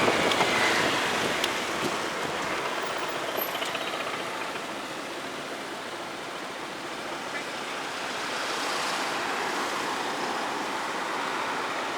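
Road traffic noise: a steady rush of vehicles and tyres that fades a little around the middle and swells again near the end.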